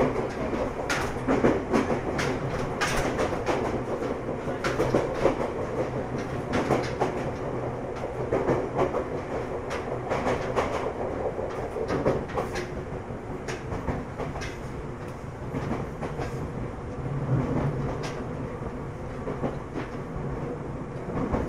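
Ryutetsu 5000-series electric train running, heard from inside the car: wheels clacking over rail joints above a steady rumble.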